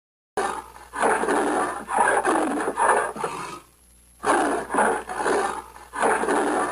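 A large animal roaring in a series of short, rough calls, about one a second, with a brief pause a little past the middle.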